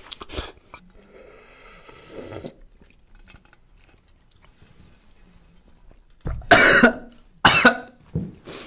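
A person coughing twice, two loud short coughs about two-thirds of the way in, after a few seconds of quieter eating noises.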